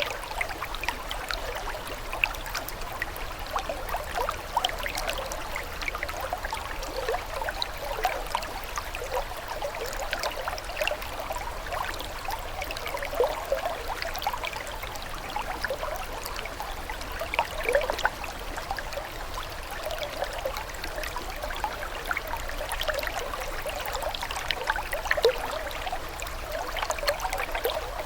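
Running water trickling and splashing steadily, with a constant patter of small droplet and ripple sounds over the flow.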